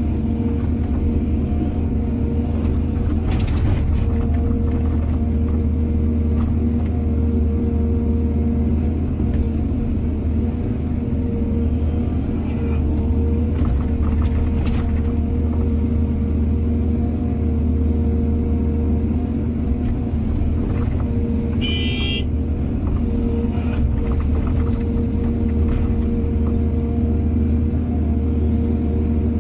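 Heavy diesel engine of an excavator running steadily under work, with occasional metallic clanks and a brief high-pitched squeal about two-thirds of the way in.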